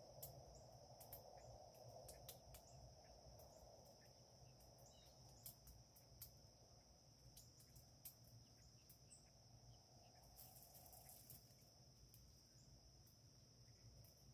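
Near silence: faint outdoor ambience with a steady high, insect-like whine, scattered small clicks and a faint low hum.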